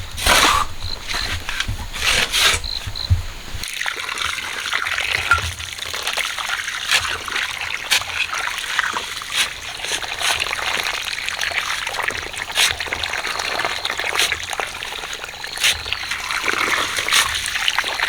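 Water trickling and splashing, with scattered clicks and knocks. A low rumble underneath stops abruptly about four seconds in.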